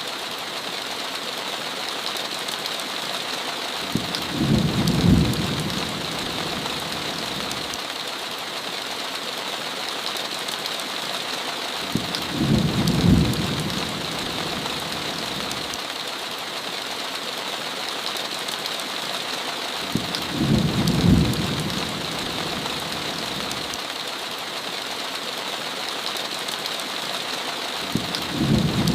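Steady heavy rain, with a low rumble of thunder about every eight seconds, four times, each rumble lasting around two seconds.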